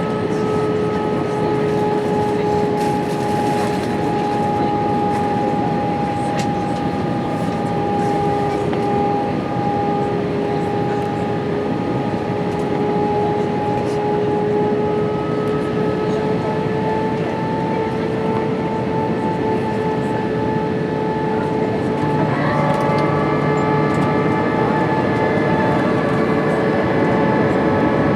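Cabin noise inside an Airbus A320-232 in flight: a steady rush of air with the hum of its IAE V2500 turbofan engines, holding two steady tones. About 22 seconds in, more tones join and the drone grows slightly louder as the engine note changes.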